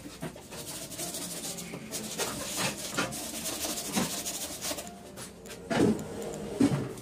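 Plastic spin drum of a twin-tub washing machine being handled and fitted into its tub: scraping and rubbing, with two louder knocks near the end.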